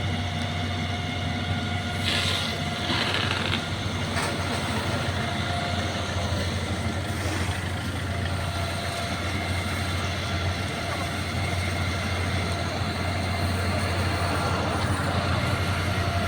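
Steady low rumble of a running vehicle with road noise, holding even throughout, with a few brief hissing patches a couple of seconds in.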